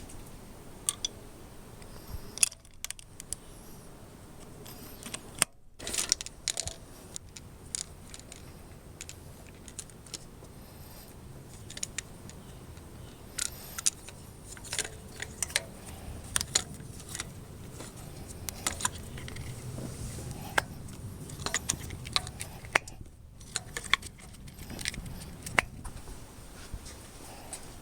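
Irregular sharp clicks and light metallic clinks over a low steady hum.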